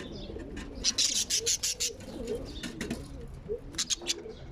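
Birds calling: soft low cooing, with a quick run of sharp high chirps about a second in and a few more near the end.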